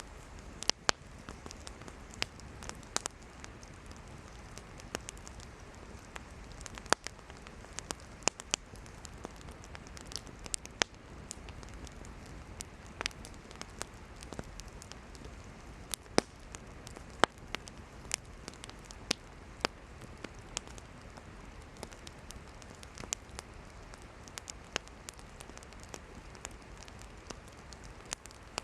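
Wood campfire burning, with irregular sharp crackles and pops from the firewood over a steady low hiss of the flames.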